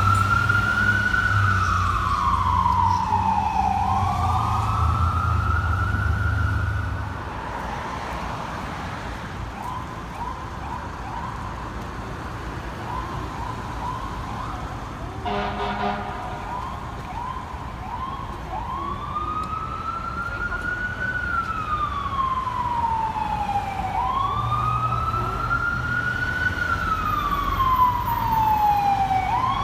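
Fire engine siren wailing, sweeping slowly up and down in pitch every few seconds, over the truck's engine rumble. In the middle it drops back to a quieter run of short, quick rising whoops, with a short horn blast about halfway, before the loud wail returns.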